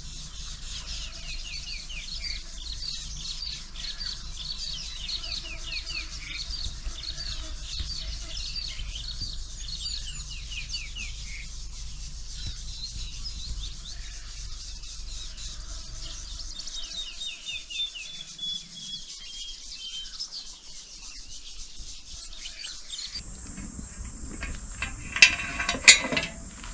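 Wild birds calling outdoors: quick, repeated short falling chirps at about two a second, then a long run of notes stepping down in pitch. Near the end the sound changes abruptly to a steady high hiss with two sharp clicks.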